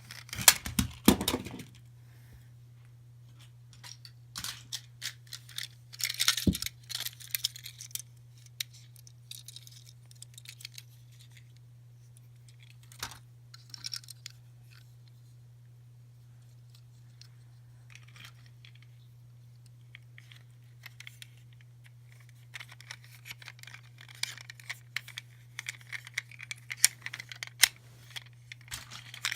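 Small plastic toys and wrappers being handled: scattered clicks, light rattles and crinkling, busiest near the start, around six seconds in and over the last several seconds. A steady low hum runs underneath.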